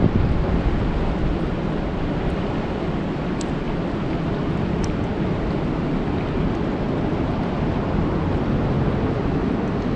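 Steady rain falling on a lake, an even dense hiss with a couple of faint ticks from single drops.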